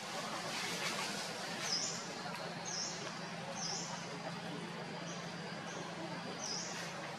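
A bird giving a series of short, high chirps, roughly one a second, a couple of them fainter, over a steady outdoor background hiss.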